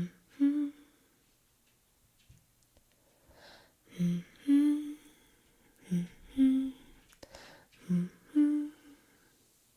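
Background song passage with a voice humming short two-note phrases, a low note then a higher one, repeated about every two seconds after a brief pause.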